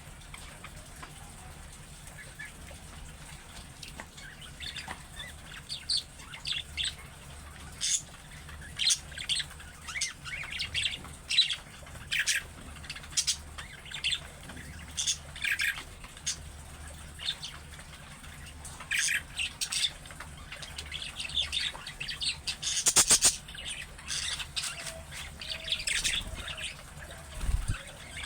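Budgerigars chirping and warbling in short, irregular calls, with a louder, harsher burst near the end.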